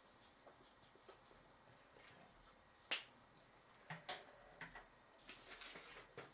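Near silence broken by a sharp click about three seconds in, then a few softer clicks and short rustles.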